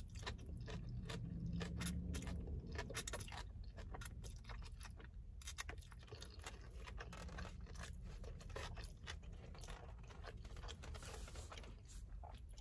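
Close-up chewing of mouthfuls of shrimp lo mein noodles, with many small irregular clicks and light scrapes from the plastic fork and styrofoam takeout container, over a low steady hum.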